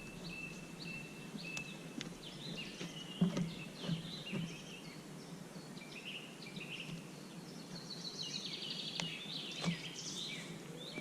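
Songbirds chirping and trilling, with a few sharp clicks or knocks scattered among them.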